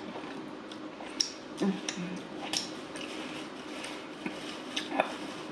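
Close-up eating sounds: chewing with scattered small wet clicks and lip smacks, and two short low hums a little under two seconds in.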